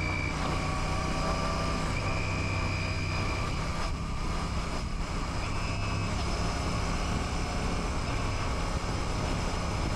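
Royal Enfield Classic 650's parallel-twin engine running at a steady, low pitch.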